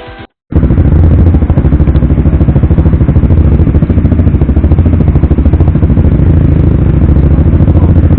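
Suzuki GSX-R150 single-cylinder four-stroke engine idling steadily through a Proliner aftermarket racing exhaust, loud with a fast, even exhaust pulse. It starts suddenly about half a second in.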